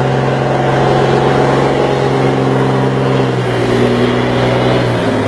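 An engine running steadily with a strong low hum; its pitch shifts about three seconds in and drops slightly near the end.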